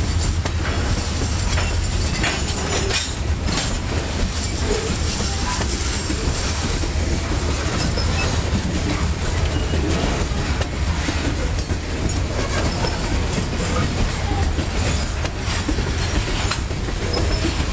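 Loaded covered hopper cars of a freight train rolling steadily past: a continuous low rumble of steel wheels on the rails, broken by scattered clicks as the wheels cross rail joints.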